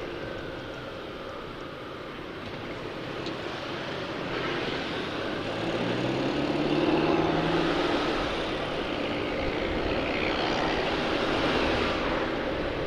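Motorcycle riding along, with wind rushing over the microphone. About halfway through the engine note climbs as it speeds up, then holds steady.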